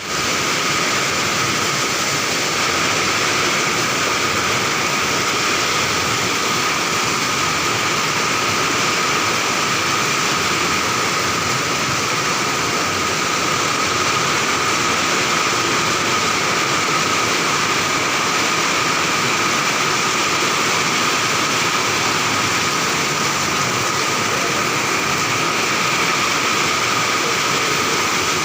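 Heavy rain pouring down steadily, an unbroken rushing noise that keeps the same level throughout.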